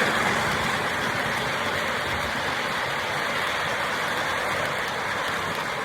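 O gauge model train running on its track: a steady rolling rumble of metal wheels on three-rail track with motor hum.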